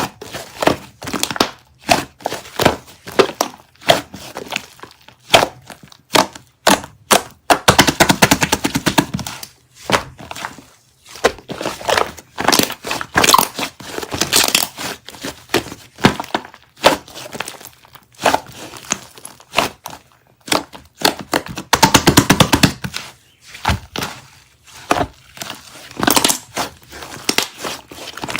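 Hardened slime being squeezed and poked by hand, giving sharp crackling and popping clicks in irregular bunches. Twice, about a third of the way in and again about three quarters through, it breaks into a run of fast, dense crackling.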